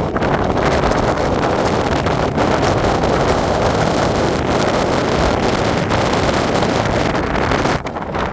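Strong wind buffeting the microphone, a steady rumbling rush with a brief lull near the end.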